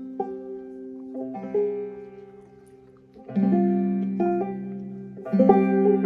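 Clawhammer banjo played slowly: a few plucked notes and chords left ringing and fading, with louder strummed chords about three and five seconds in.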